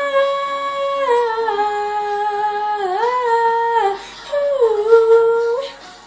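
A girl's voice singing a long wordless vocal run: held notes that bend up and down, in two phrases with a short break about four seconds in.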